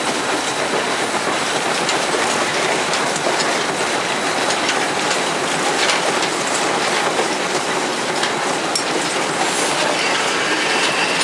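Southern Railway 630, an Alco 2-8-0 steam locomotive, running under way, heard from inside its cab: a steady, loud rush of running noise with scattered clicks from the wheels on the track. A thin high tone comes in near the end.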